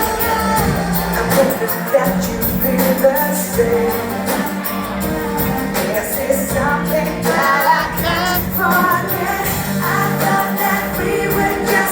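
Live pop band with a female lead singer, amplified over a PA with a steady beat.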